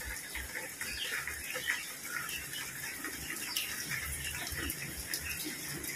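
Steady rain falling, with many small scattered drops and drips pattering irregularly.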